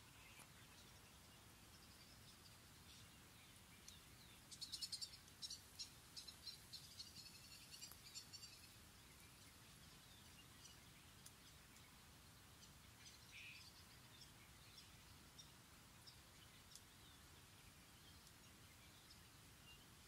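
Faint birdsong in quiet woodland: a rapid run of high chirping notes starts about four seconds in and lasts about four seconds, followed by a few scattered high calls over a faint steady background hiss.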